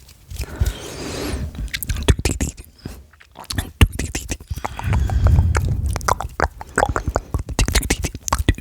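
ASMR mouth sounds close to the microphone: rapid, irregular clicks and pops of lips and tongue, with a breathy rush about a second in and a low rumble around the middle.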